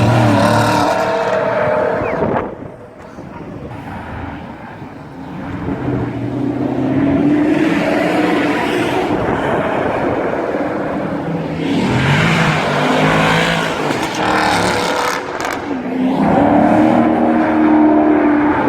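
Maserati V8 engines revving hard, the engine note climbing and falling several times, with a quieter lull a few seconds in.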